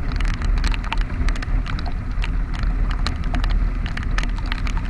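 Rain hitting the camera's waterproof case in many sharp, irregular clicks, over the steady low rumble of a Honda Vario scooter riding in the wet, with wind noise.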